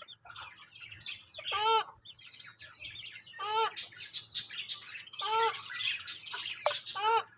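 Caged birds calling: a short, arching squawk repeated about every two seconds over steady high-pitched chirping.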